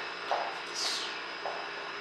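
Quiet hall room tone with a brief, faint high swish about a second in.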